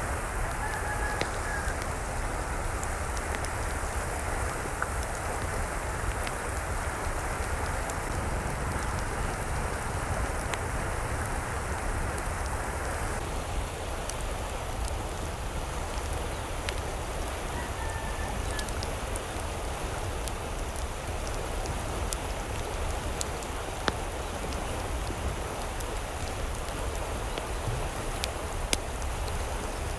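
Steady rush of falling or running water, like rain, with occasional sharp ticks scattered through it.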